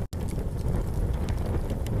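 Wood campfire crackling with scattered sharp pops, over a steady low rumble of wind on the microphone. The sound cuts out completely for a split second right at the start.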